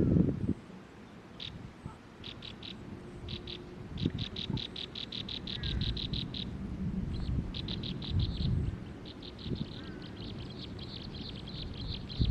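A small bird calling in runs of rapid, short, high-pitched notes, about eight a second, repeated again and again, over a low rumble with a few dull thumps.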